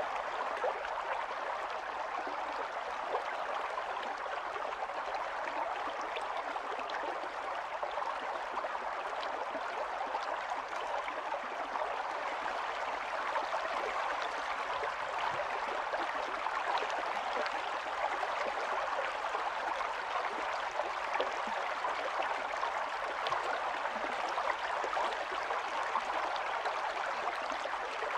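Small stream running over stones, a steady babble and gurgle of flowing water with many small splashes.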